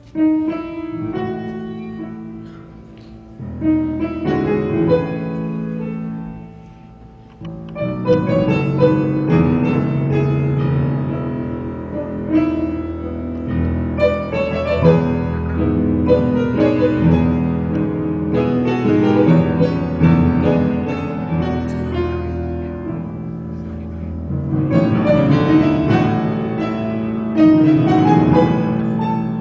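Instrumental piano music, starting suddenly with chords over a low bass line. It thins briefly twice in the first seven seconds, then plays fuller and busier from about eight seconds in.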